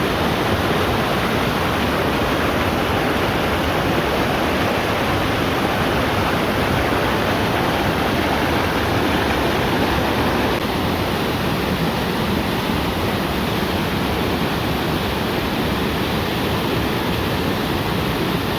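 Waterfall: a loud, steady rush of falling water, easing slightly about halfway through.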